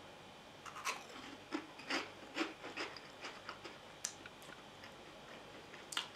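A crunchy puffed corn snack (Karl, curry flavour) being chewed: a run of crisp crunches, about two to three a second for some three seconds, then a few single crunches.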